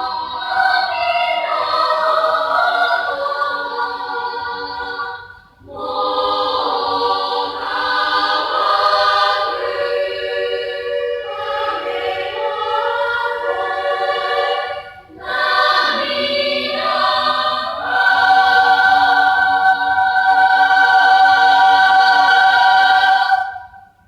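School choir singing in three phrases, with short breaths between them. It ends on a long held chord that cuts off just before the end.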